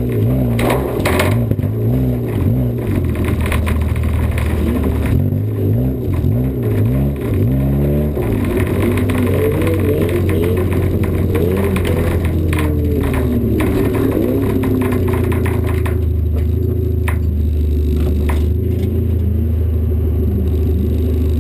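1988 Honda Civic's four-cylinder engine heard from inside the stripped cabin, revving up and down repeatedly for the first eight seconds or so, then running steadily. A few knocks and rattles come through the body.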